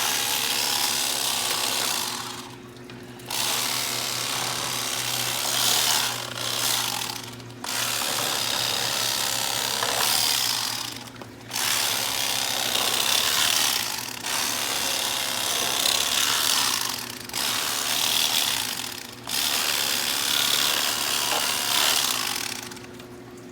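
Electric fillet knife running as it carves deep-fried turkey breast, in several stretches of a few seconds each, broken by about four brief stops.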